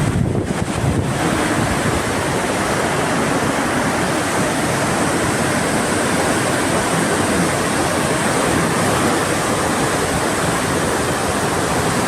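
Steady rushing of wind and sea on a cruise ship's open deck, the wind buffeting the microphone.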